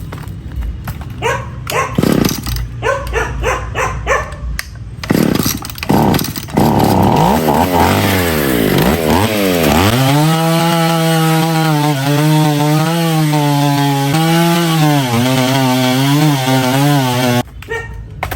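Restored Stihl 015 two-stroke chainsaw engine firing unevenly for several seconds, then revved up and down. It then runs at high revs with a fairly steady pitch and cuts off suddenly near the end.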